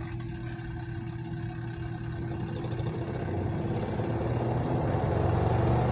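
Twin-tub washing machine's spin-dryer motor and tub spinning up, a steady hum that grows gradually louder. There is no squeal: the replaced shaft seal has cured the squeal caused by grime in the shaft bushing.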